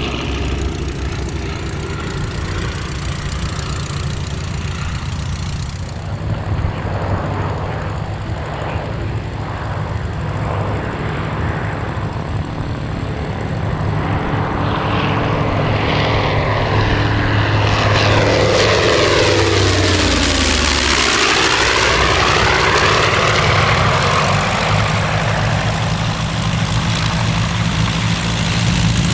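Wright Flyer replica's engine and propellers running steadily as it flies a pass. It grows louder from about halfway through, and its tone sweeps down as it goes by about two-thirds of the way in.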